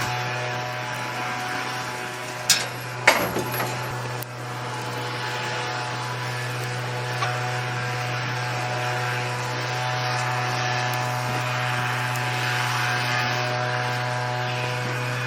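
Steady mechanical hum of dairy-barn machinery, with two sharp knocks about two and a half and three seconds in.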